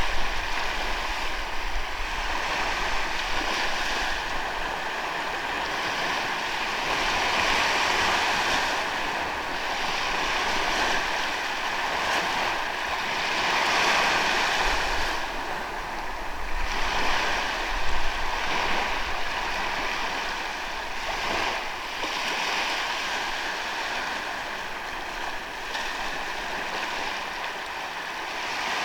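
Ocean waves breaking and washing up a sandy beach, a steady surf that swells and eases every few seconds, with a faint steady high tone underneath.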